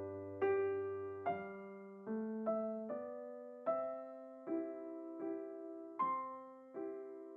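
Slow, gentle solo piano background music: single notes and chords struck about once a second and left to ring and fade.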